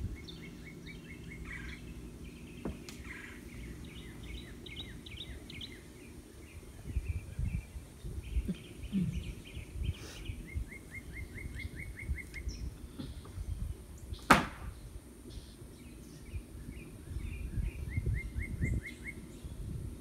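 Small birds singing fast, evenly spaced trills of chirps in several separate runs. A single sharp click about fourteen seconds in is the loudest sound, and low rumbling comes and goes.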